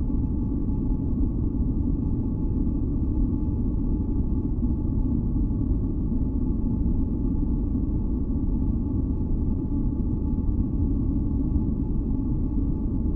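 Continuous sleep-masking noise: a deep, even noise that does not change, with a few faint steady tones sounding above it.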